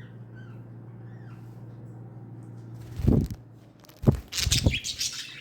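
A few faint budgie chirps over a steady low hum, then about three seconds in a loud knock, followed by more knocks and high crinkly rustling that last until near the end.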